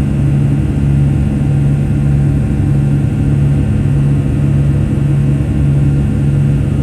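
Boeing 757-200 jet engines running, heard from inside the passenger cabin as a loud, steady drone. A low hum swells and fades about once a second.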